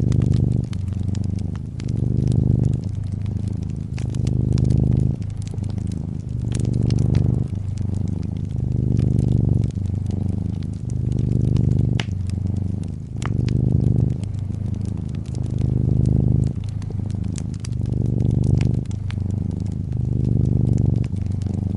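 Domestic cat purring steadily, its low buzz swelling and easing about every one and a half seconds with each breath in and out, over the scattered pops and crackles of a wood fire in a fireplace.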